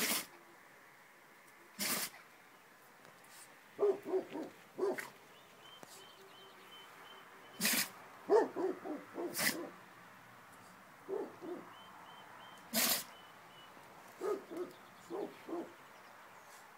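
Standard Schnauzer sneezing again and again, five sharp sneezes a few seconds apart. Between the sneezes come runs of quick, lower-pitched snorting sounds.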